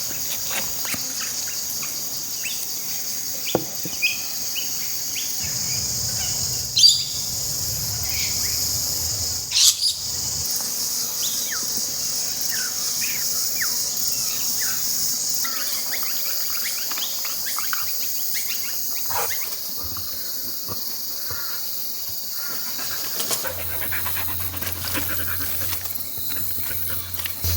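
Steady high-pitched insect chorus, with scattered short bird chirps and a few brief clicks or knocks.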